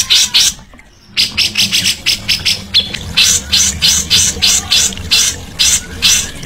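A songbird calling in a string of short, sharp, high notes. There is a brief break about a second in; the notes then come quickly, around five a second, before slowing to two or three a second. A steady low hum runs underneath.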